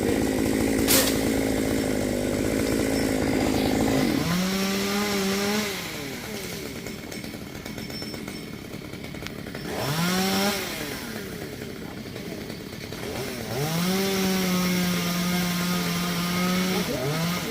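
Two-stroke chainsaw cutting into a melaleuca tree under load for about four seconds, with a sharp crack about a second in. It then runs free, drops back, revs up once and down again near the middle, and is held at high revs again near the end.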